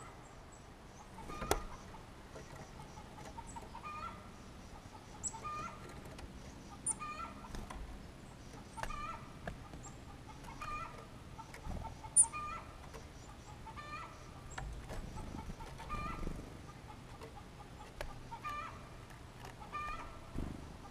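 A bird calling over and over, a short clucking call about once a second, with a few sharp taps in between, the loudest about twelve seconds in.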